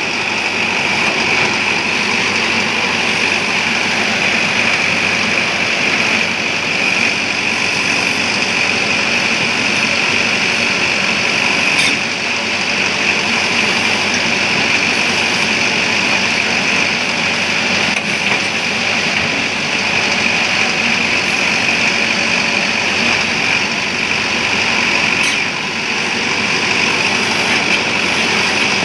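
Diesel engines of a JCB backhoe loader and a tractor running steadily while soil is loaded into a tractor trolley.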